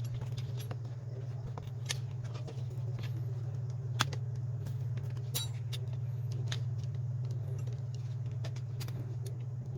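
Small sharp clicks and taps, scattered about one or two a second, of tools and small parts handled while a smartphone is taken apart, over a steady low hum.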